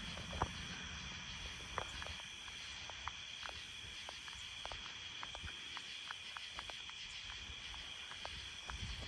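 Night insects chirring in a steady, high-pitched chorus, with faint irregular ticks scattered through it.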